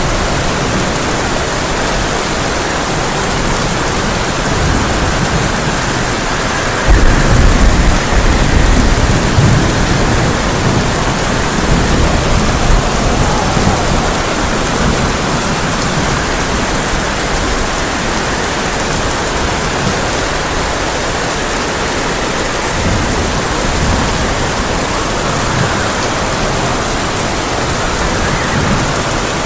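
Heavy rain falling on a tin roof, a steady dense hiss. A thunder rumble breaks in suddenly about seven seconds in, the loudest part, and fades over the next few seconds.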